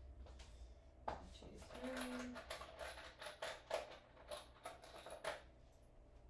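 Light clicks and knocks of small objects being handled, about a dozen in quick succession over four seconds, over a faint steady low hum.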